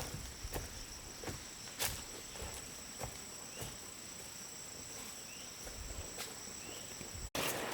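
Steady high-pitched chorus of crickets, with scattered soft clicks and knocks; it cuts off suddenly near the end.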